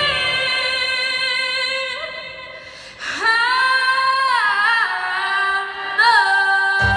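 A solo female voice singing a pop ballad over a soft backing track: a long held note fades away, then after a breath a new phrase rises into sustained notes with vibrato. The backing track's bass comes back in just before the end.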